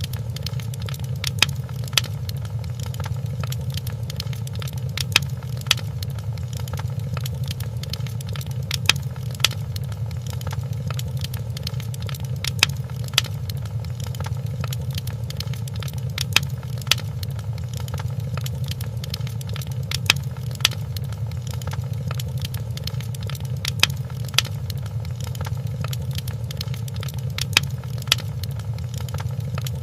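Wood fire in a fireplace crackling, with sharp irregular pops every second or two over a steady low rumble.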